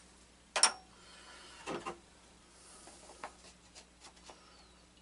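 Small hard parts being handled: a sharp clack about half a second in, a short rattle, then several light clicks, as a bolt is tried in a plastic center cap.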